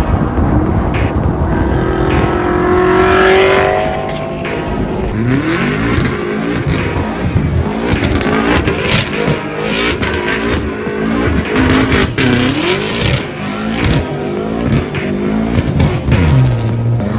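BMW M5 F10's twin-turbo 4.4-litre V8 accelerating hard, its note rising about two seconds in, then revving up and down over and over as the car is thrown around in donuts.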